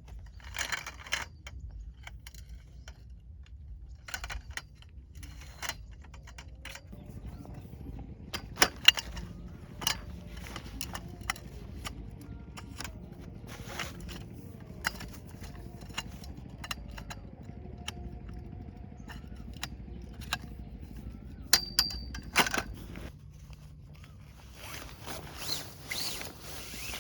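Scattered clicks, knocks and light clinks of objects being handled, the sharpest a pair of knocks about nine seconds in, over a low steady rumble.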